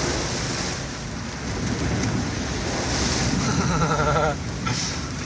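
Floodwater rushing and splashing against a vehicle driving through a flooded road, a steady rushing noise that swells in the middle and eases off near the end.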